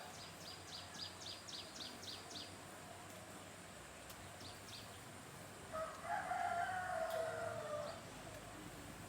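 A rooster crows once, a call of about two seconds starting around six seconds in and dropping at the end. Before it, a small bird chirps quickly, about four chirps a second, for a couple of seconds.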